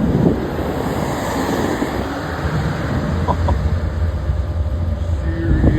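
Steady low rumble with a rushing noise, getting heavier about halfway through, with two short high blips a little past the middle.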